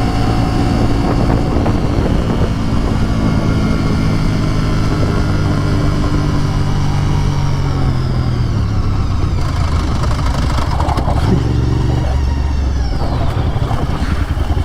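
Motorcycle engine running under way, its pitch slowly dropping over the first eight seconds or so as the bike slows, then running lower and steadier.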